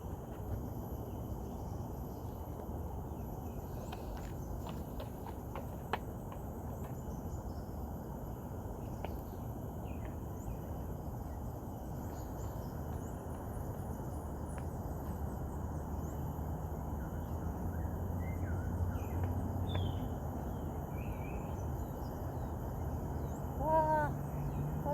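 Forest ambience: a steady high insect drone over a constant low rustling noise, with a few short bird chirps partway through.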